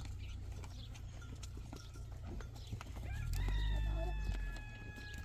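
A rooster crowing: one long drawn-out note, starting about three seconds in and sagging slightly in pitch as it ends, over a steady low rumble.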